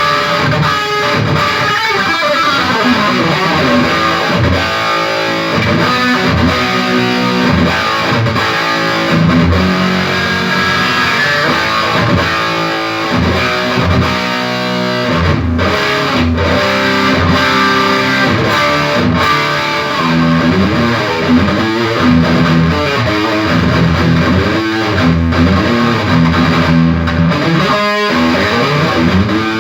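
Electric guitar played through a Peavey Triple X amplifier with some distortion, running through riffs and chords as a sound test of the amp, which is working again after bad preamp capacitors were replaced and it was biased.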